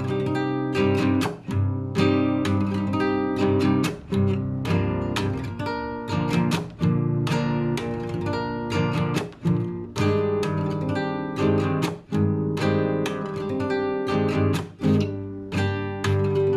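Classical guitar played solo, improvising: plucked chords and arpeggios struck every half second to a second and left ringing.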